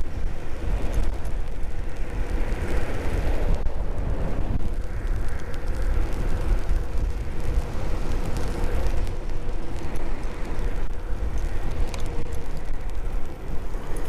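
Strong wind buffeting the action camera's microphone while riding an electric scooter, a constant heavy rumble, with a faint steady hum underneath.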